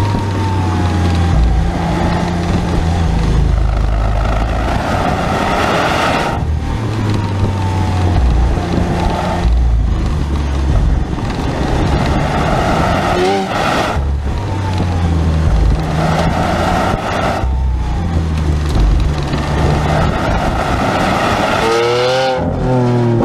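Lamborghini Aventador's V12 engine under hard acceleration, heard from inside the cabin. It pulls through the gears, with a brief sharp break in the sound at each upshift, about five times.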